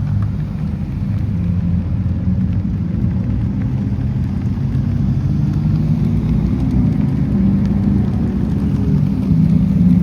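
Sports car engines running at low revs: a steady, deep engine sound with no sharp revving, swelling slightly near the end.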